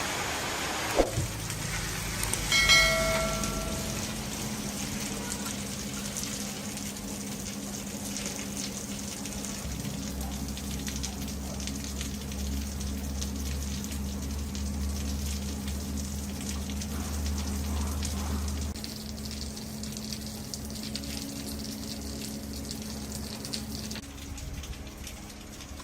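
A steady low machine hum under a constant hiss, with a deeper rumble joining for several seconds in the middle; a single ringing metal clink sounds near the start.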